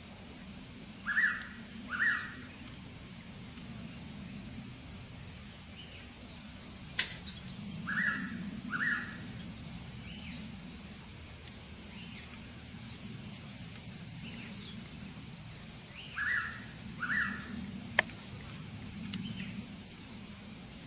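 Decu (pied bushchat) calls used as a bird lure: short paired notes repeated about every seven to eight seconds, with a steady insect-like whine and low hum behind them and two sharp clicks.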